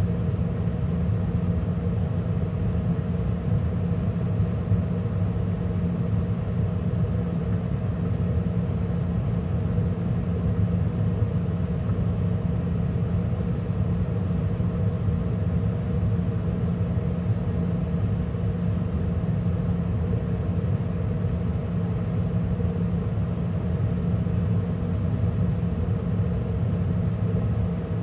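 2013 Carrier gas furnace running steadily mid-cycle, burners lit with the draft inducer and circulating blower running: a constant, even hum and airflow rush.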